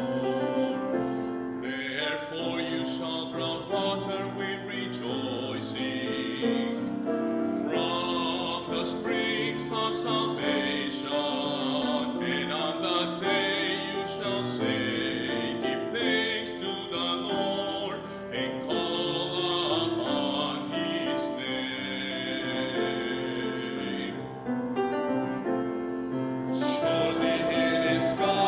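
Church music: singing with a wavering, operatic tone over piano accompaniment.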